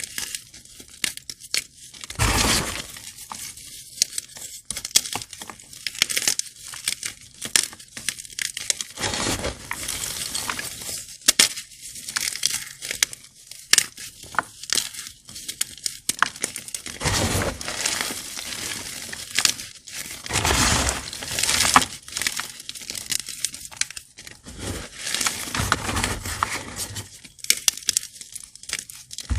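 Crunchy gym chalk blocks being crushed and crumbled, a constant crackle of sharp little cracks broken by several longer, louder crunching bursts.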